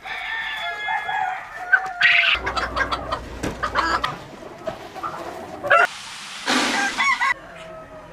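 Chickens calling: a rooster crows in one long call that falls off at its end, followed by hens clucking and a loud, harsh squawk about six and a half seconds in.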